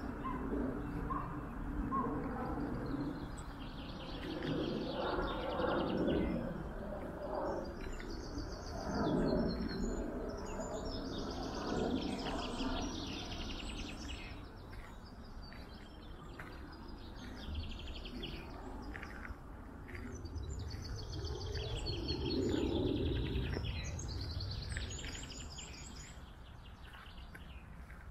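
Small songbirds singing and calling in short repeated phrases, several overlapping, over a steady low background rumble.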